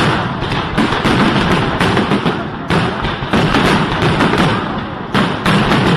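New Year's Eve fireworks and firecrackers going off in a dense barrage, several sharp bangs a second without a pause.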